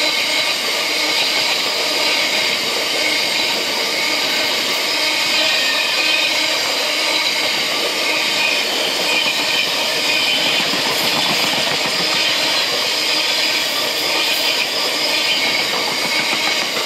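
Freight train of bogie coal hopper wagons rolling past at steady speed: a continuous rumble and rail noise from the wheels and bogies, with a faint steady high ringing over it.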